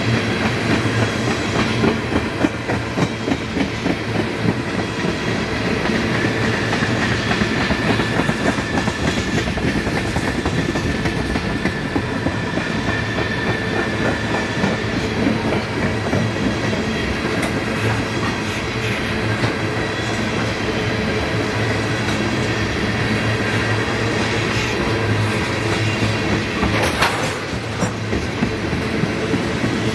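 Tank cars of a long freight train rolling past on the track: a steady wheel-on-rail rumble with clickety-clack over the rail joints. A faint high whine holds for several seconds in the first half, and a brief sharp noise comes near the end.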